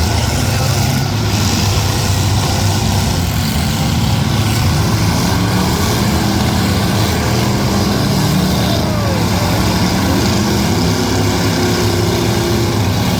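Demolition-derby cars' V8 engines running loud and steady, with a few short revs.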